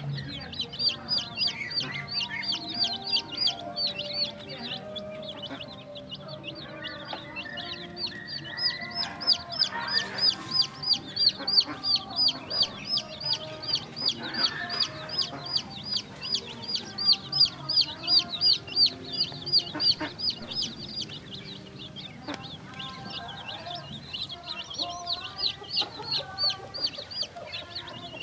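Chickens clucking while young birds, ducklings or chicks, peep rapidly and continuously, about three high peeps a second, louder through the middle.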